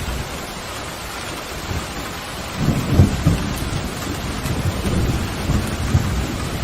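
Steady heavy rain with a low rolling thunder rumble that builds in about two and a half seconds in and keeps rumbling.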